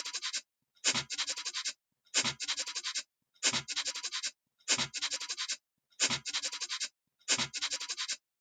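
A rasping animal call repeated seven times at even spacing, a little over a second apart. Each call is a sharp scratchy onset followed by a quick, stuttering run of rasps.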